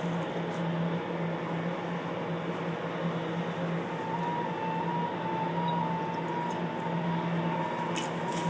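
A steady low mechanical hum with a hiss over it, and a thin wavering higher tone joining about halfway through.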